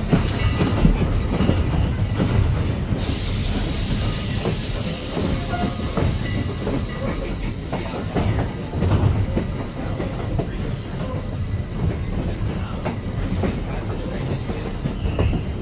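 Passenger railroad car rolling along the track: a steady low rumble with the wheels clicking over the rail joints. About three seconds in, a hiss starts suddenly and fades away over several seconds.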